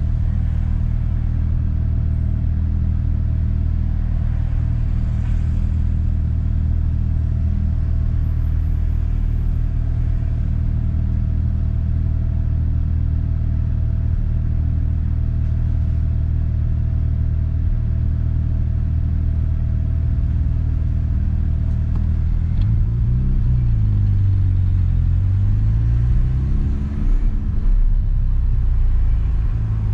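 1992 Mazda RX-7 FD's twin-rotor 13B rotary engine idling steadily, heard from inside the cabin. Over the last several seconds its pitch dips and then climbs as the car pulls away in slow traffic.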